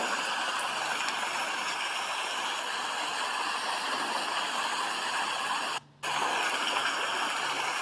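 Steady rain, an even hiss, that cuts out for a moment about six seconds in.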